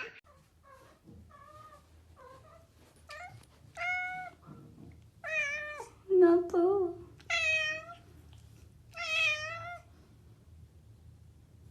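A cat meowing over and over, a string of separate meows that grow louder and longer, the last ones wavering in pitch.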